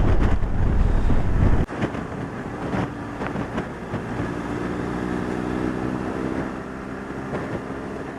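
BMW R1200GS Rallye boxer twin with a Remus end can running at a steady cruise while being ridden, with wind noise on the microphone. The wind rumble drops off suddenly a little under two seconds in, leaving a steady engine note.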